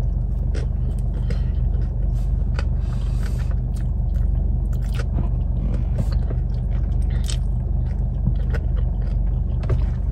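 Close mouth sounds of someone biting into and chewing a breaded meatless 'Not Chicken' sandwich: many short, sharp clicks and wet smacks, over a steady low hum in the car cabin.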